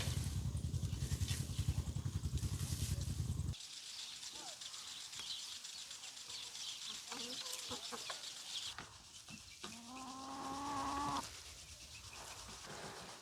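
A motor runs with a fast, loud low throb and cuts off abruptly after about three and a half seconds. Faint bird chirping and a high hiss follow. About ten seconds in comes one long rooster crow.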